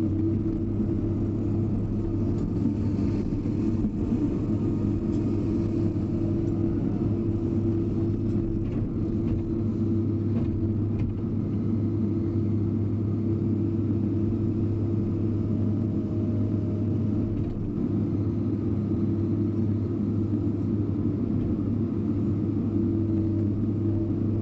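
Hydraulic excavator's diesel engine running steadily at a constant speed, a continuous low hum with no revving.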